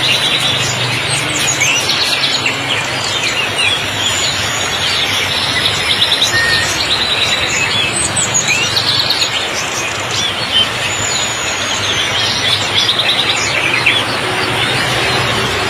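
Many songbirds chirping and trilling, with quick rapid trills and short whistled glides, over the steady hiss of heavy rain.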